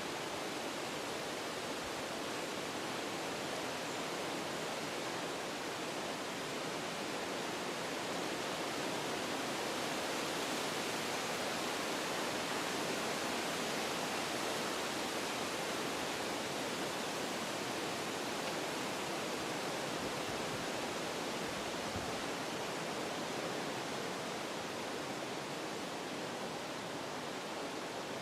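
Wind blowing through forest trees, a steady rush of moving leaves and branches that swells slightly toward the middle and eases off again.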